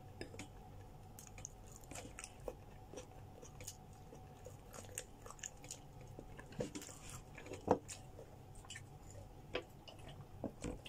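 Close-up chewing of grilled chicken, with scattered soft mouth clicks and smacks.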